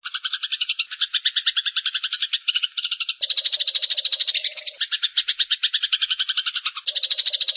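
Eurasian tree sparrows chattering in a fast, unbroken run of harsh chirps, the calls of sparrows fighting. The sound starts abruptly and its pattern changes suddenly a little after three seconds and again near the end.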